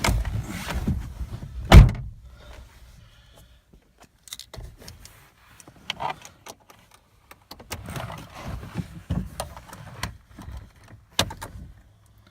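A car door shuts with a heavy thud about two seconds in, followed by scattered knocks, rustles and clicks from someone moving about in the car. A sharp click comes near the end.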